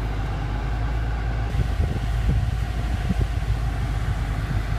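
2014 BMW M5's twin-turbo V8 idling, heard as a steady low hum inside the cabin, with a few soft low bumps about two to three seconds in.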